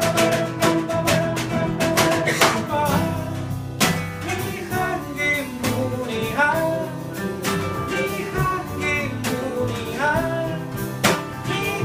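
A band playing live: guitar and drums with a voice singing over them.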